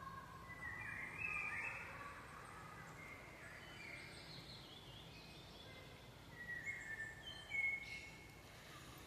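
Wild songbirds singing faintly: short chirps and whistled phrases, one cluster about a second in and another near the end, over faint steady background noise.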